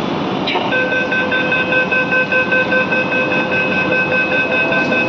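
Rapid electronic warning beeping at one steady pitch, starting about half a second in, over the steady rumble of a Nagpur Metro train.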